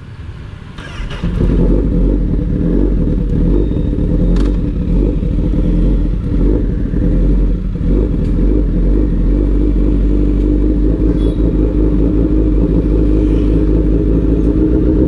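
Honda CBR1000RR's inline-four engine, fitted with an SC-Project aftermarket exhaust, idling steadily. The sound fades in over the first second or so, then holds an even note.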